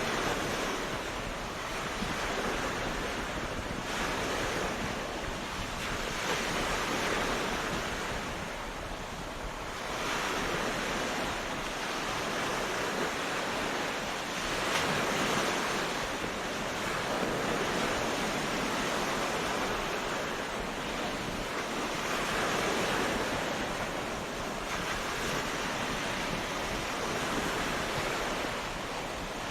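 Ocean surf breaking on a beach: a continuous rushing wash of waves that swells and eases every several seconds.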